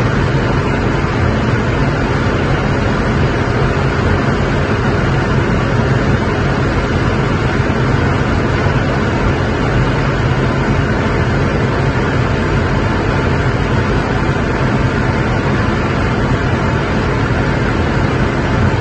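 LaFerrari's V12 at a steady high cruising speed: a constant engine drone under heavy wind and tyre noise, with no rise or fall in pitch.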